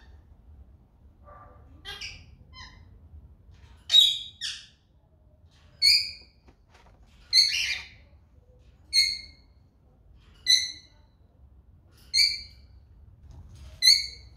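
A bird calling over and over: short, sharp, squawky calls, about one every second and a half, some coming in quick pairs.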